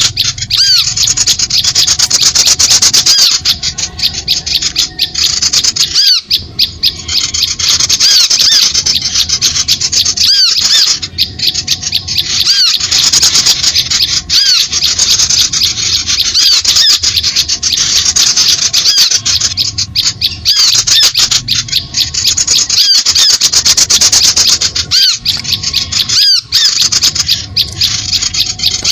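A bird-lure recording of small birds calling: a loud, dense chatter of quick, repeated high chirps and rapid clicks, without a break.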